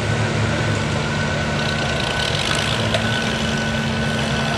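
A heavy engine idling steadily, with a faint steady high whine above it.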